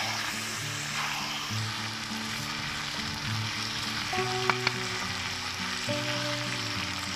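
Chicken and potatoes sizzling as they fry in a metal karahi, stirred with a metal spatula that clicks sharply against the pan twice about four and a half seconds in. Background music with steady held notes plays underneath.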